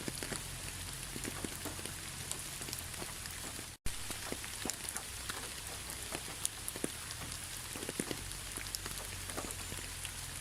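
Steady rain falling on a surface, with many scattered individual drops tapping. The sound cuts out for an instant about four seconds in.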